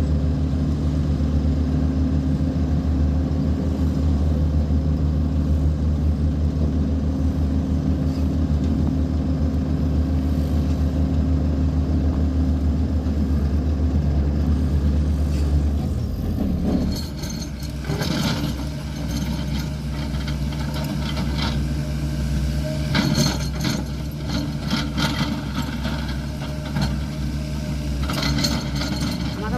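Volvo 210E excavator's diesel engine running steadily with a deep hum. About halfway through the hum drops, and bursts of clattering and scraping come several times over the engine.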